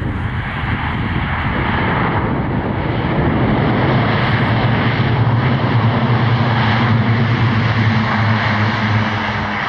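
Lockheed C-130J Hercules' four Rolls-Royce AE 2100 turboprops running through a short-field landing: a steady propeller drone that grows louder about halfway through.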